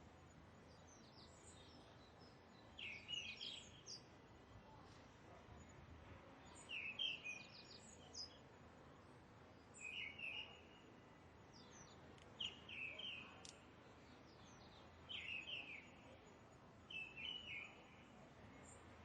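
A bird singing the same short chirping phrase again and again, roughly every two to three seconds, over a faint steady background hiss.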